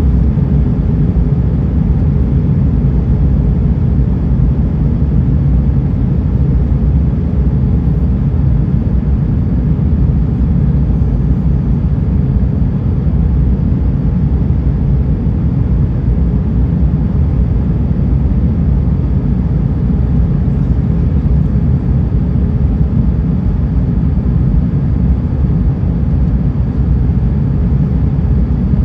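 Steady cabin noise inside an Airbus A320 in flight: a constant low rumble of engines and rushing air, with a faint steady hum and no changes.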